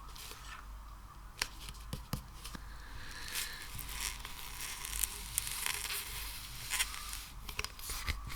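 A sticky material being pulled and squeezed by hand, with a continuous crackle, tearing sounds and scattered sharp sticky pops.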